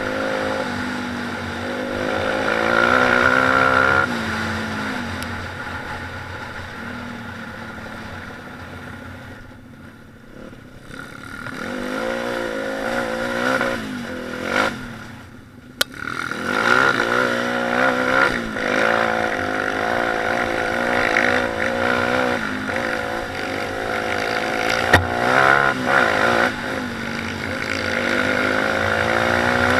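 Single-cylinder four-stroke pit bike engine revving up and down as the bike is ridden. The engine sound fades away about a third of the way in and again around the middle, then comes back strongly. A couple of sharp clicks are heard along the way.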